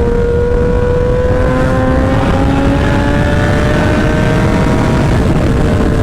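Sportbike engine fitted with a short SC Project aftermarket exhaust, pulling at highway speed, its pitch climbing slowly as it accelerates and easing off slightly near the end. Heavy wind rumble on the microphone runs underneath.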